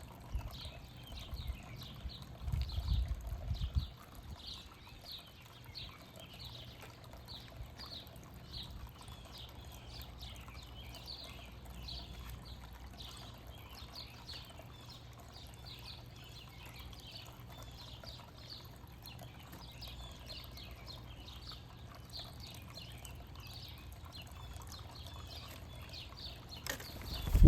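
Small backyard birds chirping continuously, many short high chirps overlapping, with a low rumble during the first few seconds and a sharp knock near the end.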